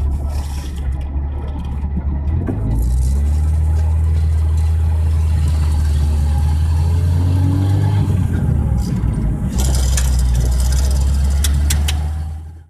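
Motor vehicle engine running steadily under way, the hum stepping up in pitch and loudness about two and a half seconds in and then holding.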